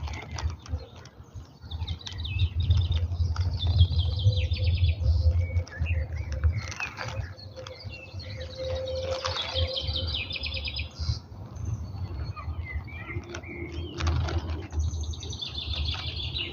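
Small birds chirping and singing, with several quick, rapidly repeated trills and scattered calls. Underneath is a low rumble that swells and fades, loudest through the first half.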